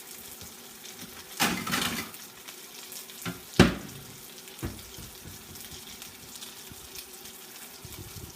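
Panko-crusted chicken sizzling steadily as it sears in a frying pan, with a brief clatter about a second and a half in and a sharp knock a couple of seconds later, like a plate being handled and set down.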